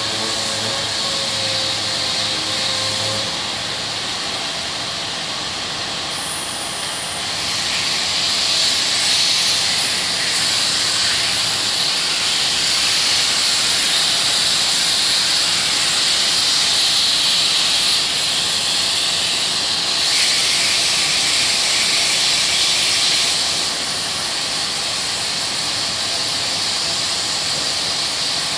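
Sandpaper dry-sanding cured body filler on a car panel: a steady abrasive hiss. It gets louder from about seven seconds in and drops back about twenty-three seconds in.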